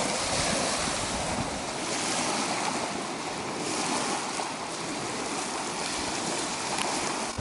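Wind-driven waves washing on the lakeshore together with strong wind, a steady rushing noise that swells and eases slightly.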